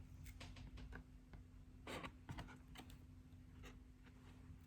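Near silence with a faint low hum and a few scattered faint clicks and taps, strongest about two seconds in.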